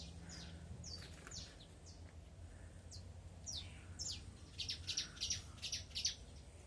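Small birds chirping: a scatter of short, high, falling chirps, then a quick run of louder chirps from about four and a half to six seconds in.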